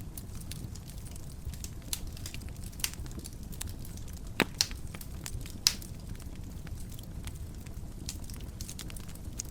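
Wood fire crackling in a fireplace: a steady low rumble of flames with scattered sharp pops and snaps, a few louder ones in the middle.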